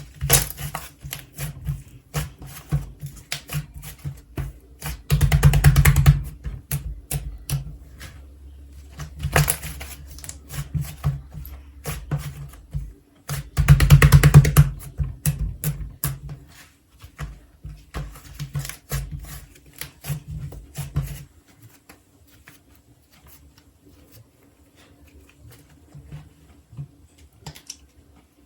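Melon bread slime being squeezed and pressed by hand, giving quick wet clicks and pops, with two bursts of dense rapid crackling about five and fourteen seconds in. The clicking thins out and grows faint after about twenty seconds.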